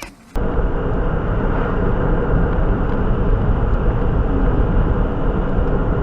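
Steady road and engine noise inside a moving car, heavy in the low end, picked up by a dashcam's microphone; it cuts in abruptly just after the start.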